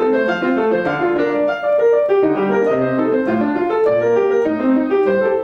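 Acoustic piano playing a continuous, flowing passage of many notes. The notes ring over one another under the sustain pedal.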